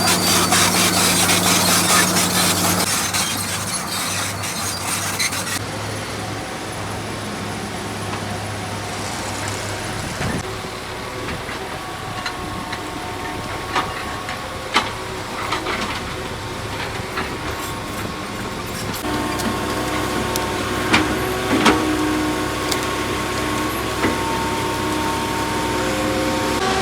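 Excavator diesel engine running under working load, with its hum shifting in pitch and level, steady tones joining from about two-thirds of the way in, and scattered sharp knocks.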